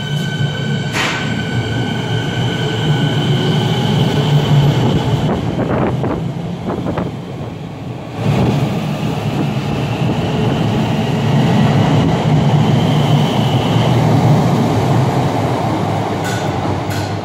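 Siemens Nexas electric suburban train pulling out and passing at close range, a steady heavy rumble of wheels and carriages with a high steady whine over it. The rumble dips briefly about halfway through, then builds again as the last cars go by.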